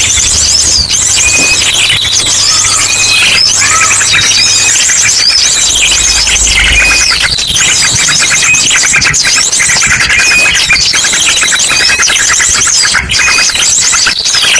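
Dense chorus of small birds calling over one another, with rapid high trills and short repeated whistles, mixed with ashy drongo calls. This is a bird-lure recording, played to draw birds in for trapping.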